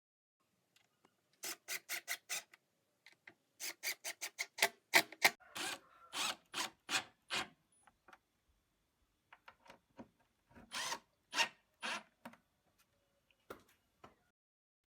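Hand abrading a wooden workpiece: short scratchy rubbing strokes in quick runs of about four a second, broken by brief pauses.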